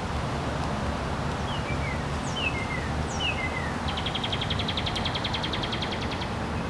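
Wild birds calling: three short falling chirps, then a rapid even trill of about ten notes a second lasting over two seconds, over a steady low background rumble.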